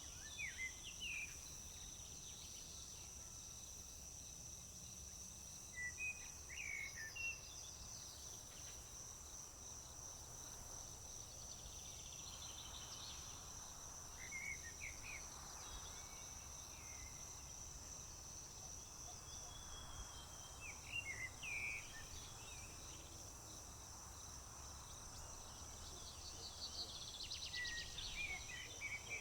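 Crickets trilling in a steady high drone, with short bird chirps breaking in about five times and a quick trill near the end, over a low rumble.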